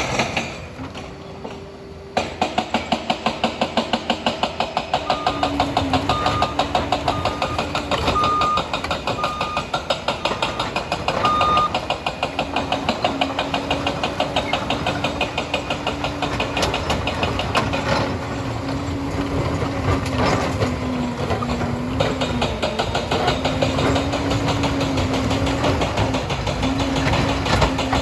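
Liebherr 746 crawler dozer's diesel engine running hard, its pitch rising and falling as it works, with a short dip about a second in. A reversing alarm beeps about seven times a few seconds in.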